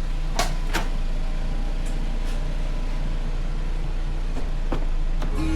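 Steady low rumble of a car's engine and road noise heard from inside the cabin while driving, with two short clicks under a second in.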